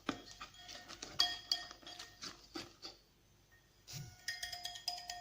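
A mixing utensil clinks and taps against the side of a bowl, over and over, as pancake batter is stirred. It stops about three seconds in. About four seconds in, background music with chiming, struck notes begins.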